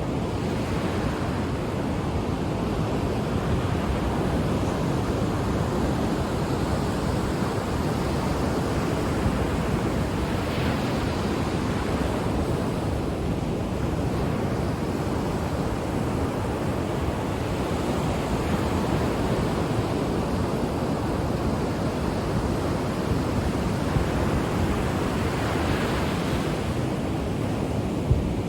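Ocean waves on the shore: a steady wash of surf, with a wave breaking and rushing up the beach about every eight seconds.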